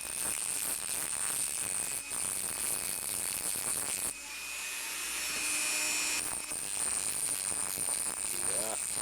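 Dremel rotary tool with an abrasive wheel running with a steady high whine, grinding the spot-weld stubs off the terminals of a NiCad sub-C battery cell and roughing up the metal for soldering.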